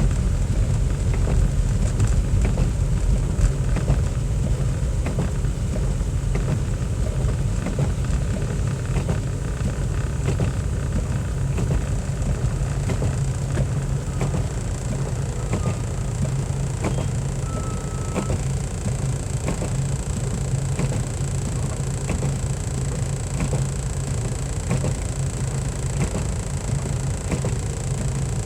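Car driving: a steady low rumble of engine and road noise, with scattered faint ticks.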